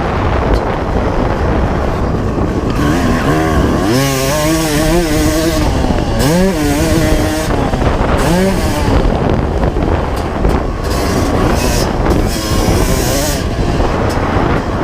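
A 1995 Honda CR250's two-stroke single-cylinder engine being ridden hard, its pitch climbing and dropping again and again with throttle and gear changes, the sharpest revs in the middle.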